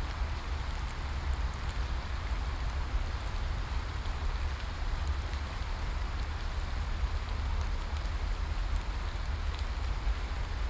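Steady rain falling, a continuous hiss with scattered light drop ticks over a deep, constant low rumble.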